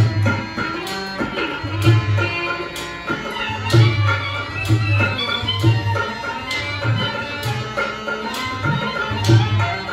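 Live Rajasthani folk music: a tabla beats deep, irregular bass strokes under a sustained, sliding melodic line.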